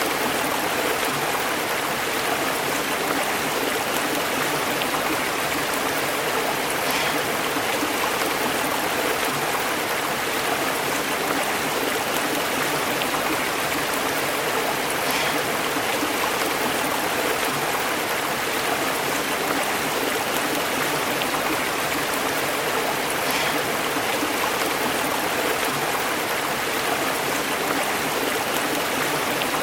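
Stream burbling and bubbling over rocks, a steady unbroken rush of flowing water.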